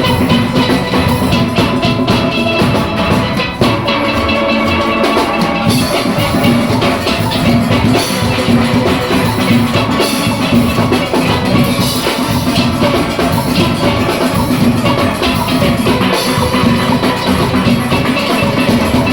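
A steel orchestra playing: many steelpans ringing out a melody and chords over a steady beat of drum kit and percussion.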